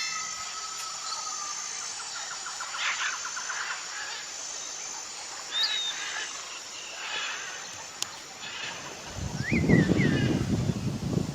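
Outdoor wetland ambience with scattered short bird calls and chirps. Near the end a couple of rising-and-falling calls sound over a burst of low rumbling noise.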